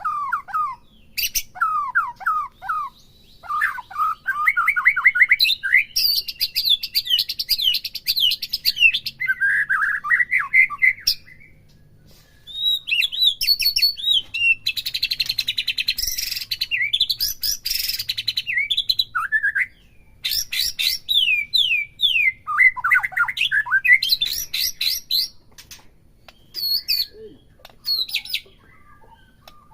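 White-rumped shama (murai batu) singing: varied phrases of rapid sweeping whistles and trills, broken by short pauses.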